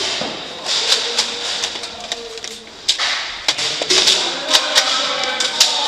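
Foam-dart blasters firing: scattered sharp clicks and pops at irregular intervals, about eight or nine in all.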